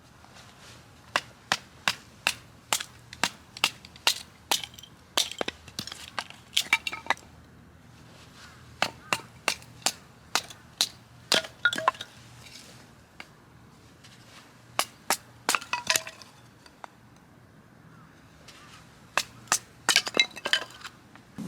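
Dry firewood cracking and snapping: a long series of sharp, irregular cracks in clusters, with short pauses between them.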